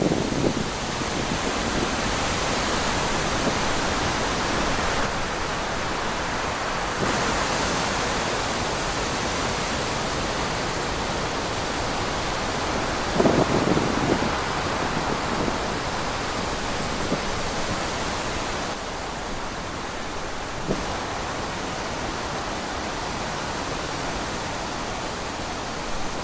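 Steady wind blowing, an even rushing noise, with a brief louder low rumble about halfway through.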